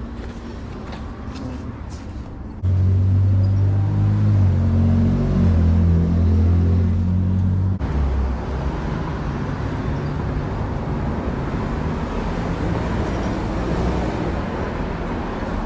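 A loud, low engine-like hum cuts in suddenly about two and a half seconds in and stops about five seconds later. A steady outdoor background noise, like passing traffic, runs under it.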